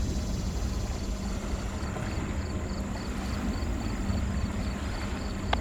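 Jet engines of a departing Boeing 777-300 heard from a distance: a steady low rumble, with a short click near the end.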